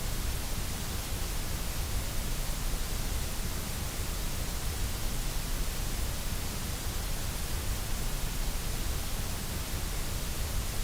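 Steady synthetic white noise: an even, unchanging hiss across the whole range from low rumble to high fizz.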